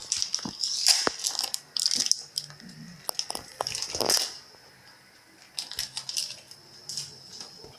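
Packing tape being peeled off a new refrigerator, crackling and crinkling in short irregular bursts, with a few clicks of handling.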